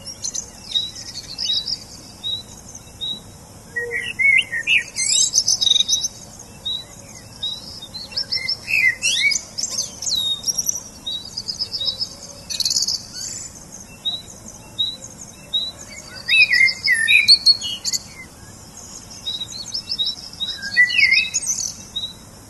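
Birds chirping and singing: a short chirp repeats about once a second, with bursts of quick, high twittering every few seconds.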